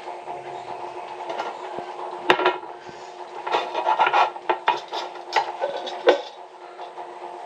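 Hand-tool work on a water pipe: scraping and rasping with irregular knocks and clinks, the sharpest about two seconds in and about six seconds in. A steady hum runs underneath.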